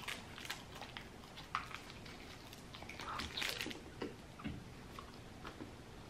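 A man biting into a sub sandwich and chewing it close to the microphone, with scattered mouth clicks.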